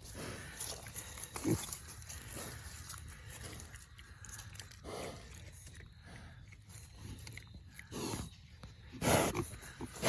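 Pigs grunting in short separate calls, the loudest ones near the end.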